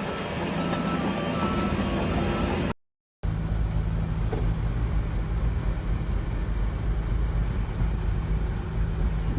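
Shantui DH17C3 bulldozer's diesel engine running under work. The sound drops out completely for about half a second near three seconds in, then a steady low engine drone carries on.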